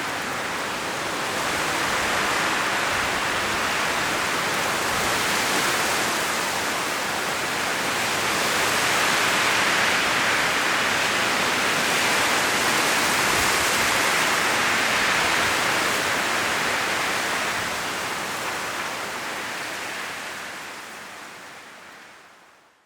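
Strong wind blowing through autumn forest trees, rustling the leaves in a steady rush that swells somewhat and then eases. It fades out over the last few seconds.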